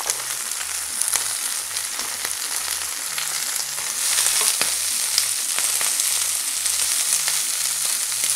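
Prawns and cut green asparagus sizzling in hot oil in a non-stick frying pan, a steady hiss with scattered light crackles. The sizzle grows a little louder about halfway through.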